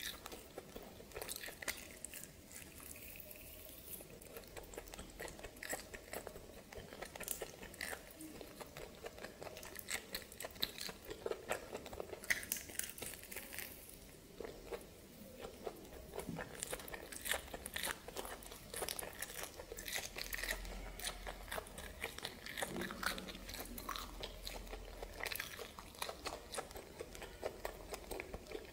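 A person biting and chewing steamed snake, crunching in many irregular sharp clicks.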